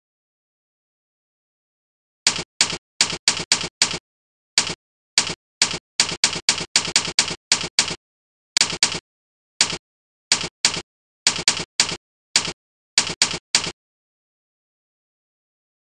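Keystroke sound effects from the Jingle Keyboard program, one identical short click for each key press. About thirty of them come in an uneven typing rhythm, starting about two seconds in, with dead digital silence between them.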